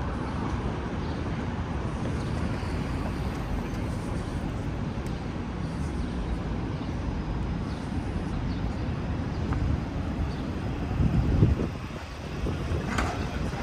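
Steady low rumble of city traffic, swelling briefly about eleven seconds in.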